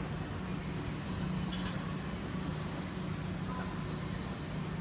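Steady low hum and rumble of trains running and standing around the station, with no single sudden sound.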